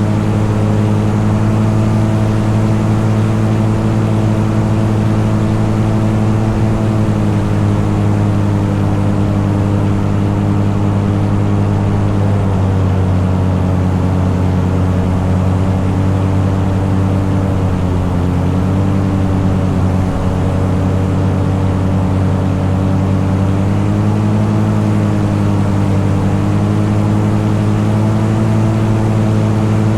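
An engine running steadily at cruise, its pitch easing down slightly about twelve seconds in and coming back up a little past twenty seconds.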